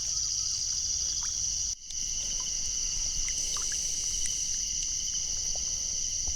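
Steady, high-pitched chorus of crickets with a pulsing shimmer, over a low rumble. The sound cuts out for a moment just under two seconds in.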